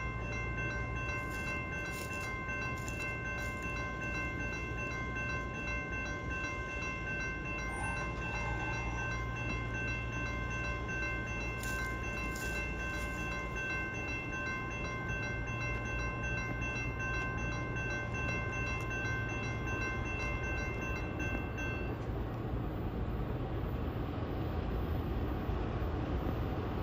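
CSX freight train with a GE AC44CW diesel-electric locomotive leading, a steady low rumble, overlaid by a steady high-pitched tone that cuts off about three-quarters of the way through.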